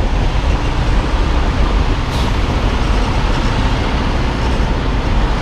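Semi tractor's diesel engine running with a steady low rumble, heard from inside the cab.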